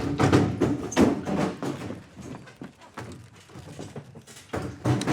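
A quick, irregular run of hard knocks, clicks and dull thuds, loudest right at the start and again near the end.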